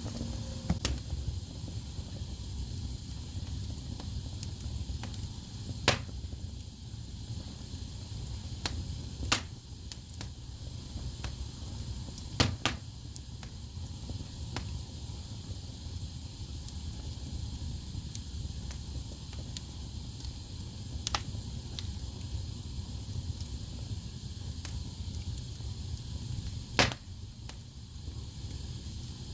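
Wood fire burning in a fireplace: a steady low rumble of flames with scattered crackles and sharp pops from the burning logs. The loudest pops come about 6, 9, 12 and 27 seconds in.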